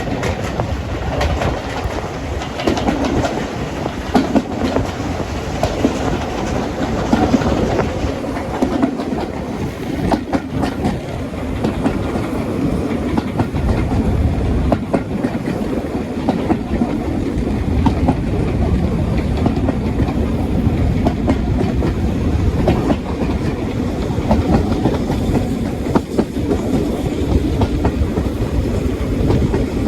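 A train running along the track: a steady rolling rumble with the wheels clicking over the rail joints.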